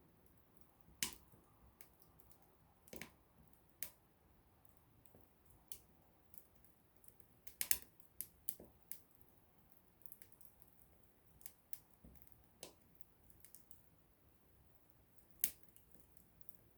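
Small wood fire crackling: irregular sharp pops and snaps of burning wood over a faint hiss. The loudest snaps come about a second in, in a cluster near the middle, and once more near the end.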